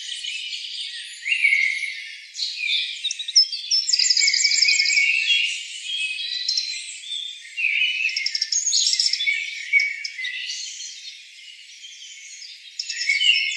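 Several small birds chirping and singing at once, with overlapping whistled notes and fast high trills.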